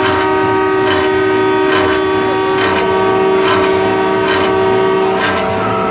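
A truck's air horn, sounded as one long held chord of several tones over a running diesel engine. The strongest tone drops out about five seconds in.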